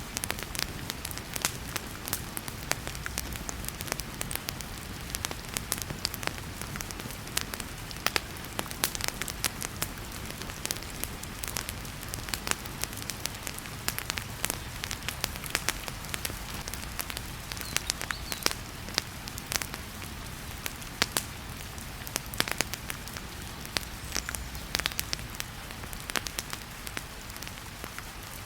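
Wood fire crackling in a fireplace with frequent sharp pops and snaps, over a steady hiss of heavy rain.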